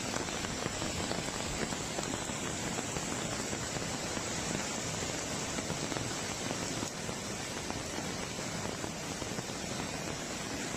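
Heavy rain falling: a steady, dense hiss with fine pattering, dipping slightly about seven seconds in.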